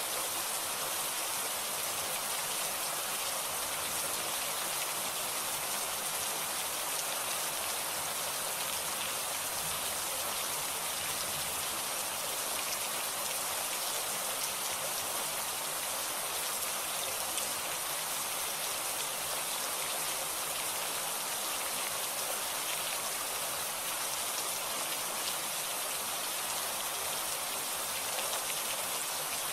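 Steady rain falling, with the patter of many small drops hitting a surface; no thunder.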